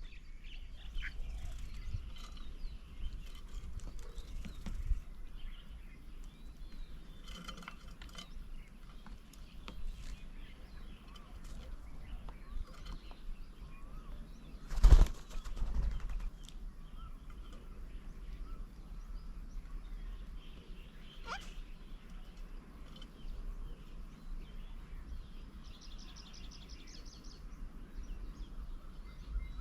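Birds at an outdoor bird table: scattered faint chirps and calls over a steady outdoor hiss. About halfway through there is a sudden loud thump with a short flurry after it. Near the end comes a rapid ticking trill.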